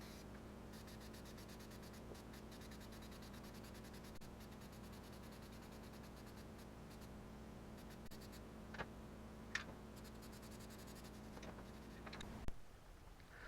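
Faint scratchy strokes of a touch-up paint brush being worked over a fridge's surface, over a steady low hum that stops abruptly near the end. Two short squeaks come a little past the middle.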